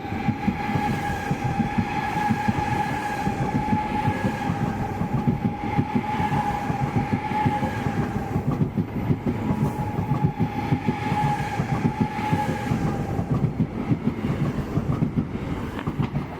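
Electric train rolling through the station: the wheels rumble and clatter over the rail joints, under a steady high-pitched whine from the drive that fades out about thirteen seconds in.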